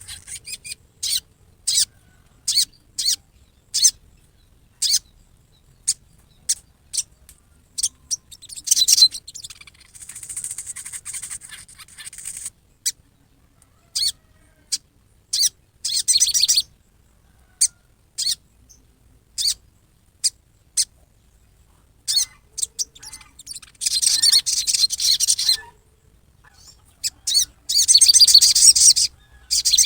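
Sogon bird giving rough, harsh 'riwikan' calls: scattered sharp high chips broken by several longer harsh buzzing bursts, the loudest near the end. These are the agitated calls that keepers play to provoke a sogon into answering.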